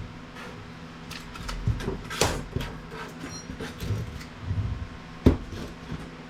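Irregular clicks, knocks and a short scrape as the plastic and steel parts of a piece of IT equipment are handled during disassembly, the sharpest click about five seconds in. A faint steady hum runs underneath.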